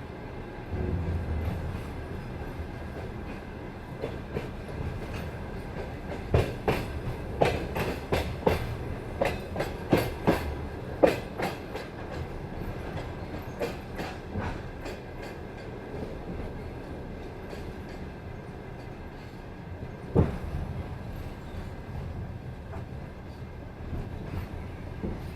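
Passenger train carriage rolling with a steady low rumble, its wheels clacking over rail joints and points: a quick run of sharp knocks in the middle, then one single knock later on.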